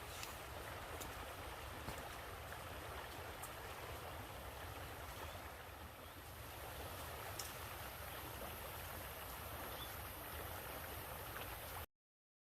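Running water from a stream flowing steadily, with a few faint ticks. The sound cuts off abruptly near the end.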